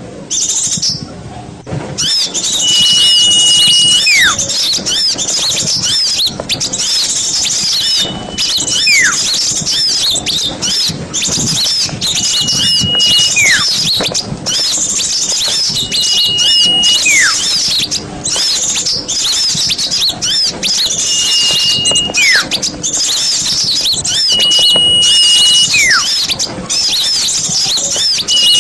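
Bird-lure recording of many small birds twittering and chattering without pause. Over it, a clear whistle holds one note for about a second and then swoops down, repeated about every four seconds.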